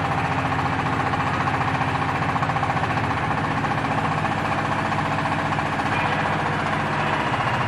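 Diesel engine of a hydraulic baler running steadily, with an even, rapid firing beat.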